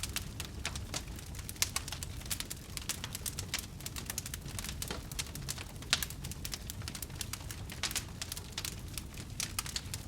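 Wood fire burning in a fireplace, crackling with many irregular sharp pops over a low steady rumble of the flames.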